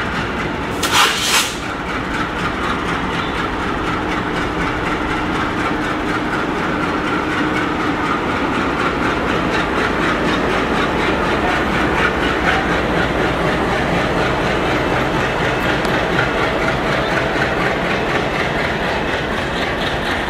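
Passenger train coaches running steadily behind a WDG-3A diesel locomotive: wheels clattering over rail joints over a continuous rolling rumble. About a second in there is a brief, loud rush of noise.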